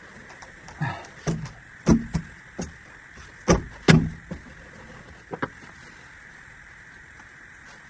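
Plastic drainage pipe fittings being handled and pushed together, giving a string of irregular knocks and scrapes in the first few seconds, the loudest about two and four seconds in.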